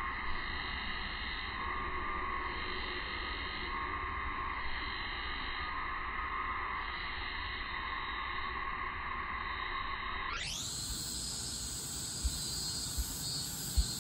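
A steady summer insect chorus with a band that swells and fades every couple of seconds. About ten seconds in, the sound suddenly turns brighter and hissier, and a few short knocks follow near the end.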